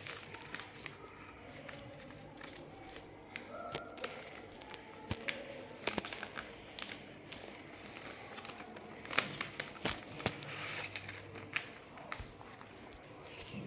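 A sheet of paper being folded and creased by hand into a paper airplane: soft rustling and crinkling with scattered sharp little taps and clicks.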